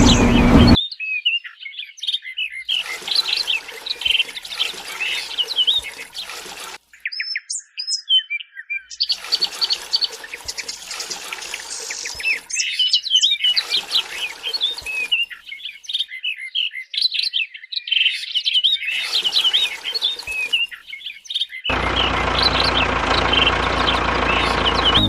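Small birds chirping and twittering in several stretches that start and stop abruptly, over a light hiss.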